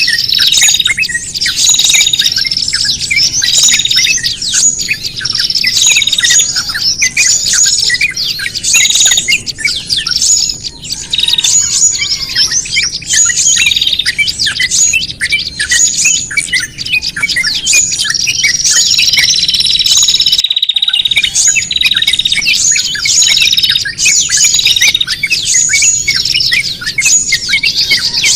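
Many small songbirds chirping and calling noisily at once, with rapid repeated high chirps and short trills and a longer trill about two-thirds of the way through: an agitated bird-lure recording of the kind used to attract small birds. The sound drops out briefly about 20 seconds in.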